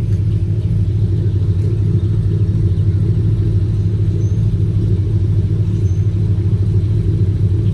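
Steady low vehicle rumble: an engine running with an even, deep drone that does not change.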